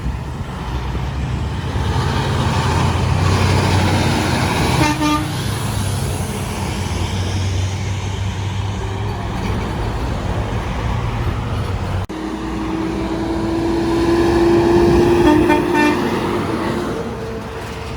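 Semi trucks passing on a highway with engine and road noise, one sounding a short horn blast about five seconds in. After a sudden cut, a truck horn is held for about five seconds before trailing off.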